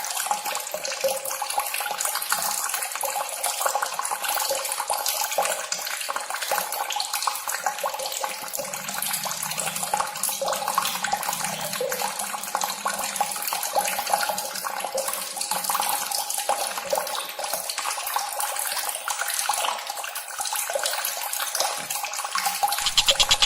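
Steady trickling, splashing water, evenly spread and without clear pitched notes.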